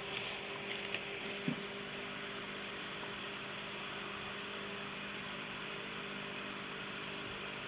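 Steady background hum with a light hiss, with a few faint clicks and a small knock in the first second and a half.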